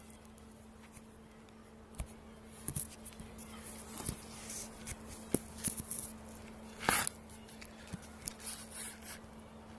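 Scattered sharp snaps, clicks and short rustles of hands handling small dry twigs and kindling for a campfire, the loudest a brief noisy burst about seven seconds in.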